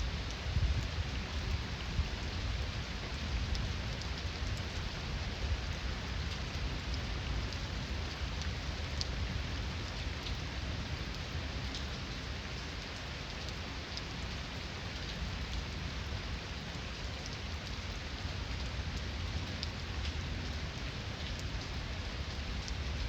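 Heavy rain falling steadily, with scattered sharp drop hits and a low rumble underneath.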